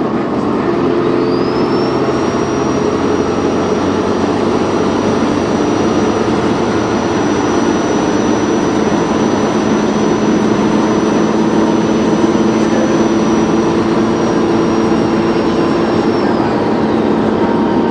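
Dennis Trident 2 bus engine running under load, its turbocharger whistle rising about a second in to a steady high whine, holding, then falling away near the end.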